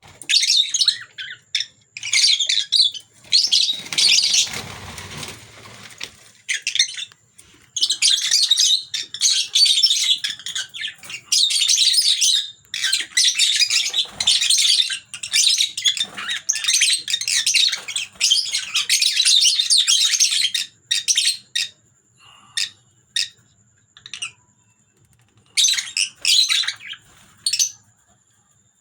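Pet lovebirds chattering in rapid, high-pitched chirping bursts, with a brief rustling noise about four seconds in. The chatter thins to a few single chirps for several seconds near the end, then starts up again. A faint steady high whine sits underneath.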